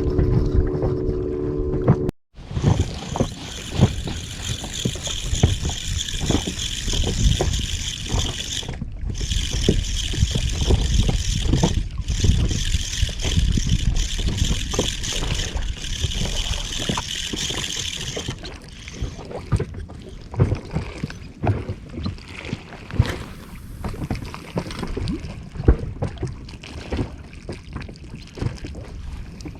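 Wind on the microphone and water moving around a small inflatable boat at sea, with scattered short knocks and handling sounds. A steady high hiss runs through the first half and stops a little past the middle.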